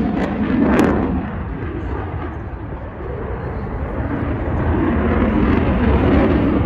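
F-16 fighter jet engine noise as the jet passes overhead, dipping for a moment and then building again into a deep, rumbling roar.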